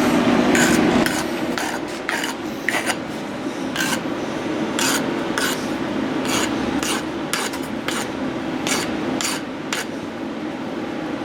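Short metal-on-metal scrapes, about two a second, as a freshly cut piece of turbo cold-side tubing is pushed and twisted against its mating pipe to test the fit. A steady low hum runs underneath.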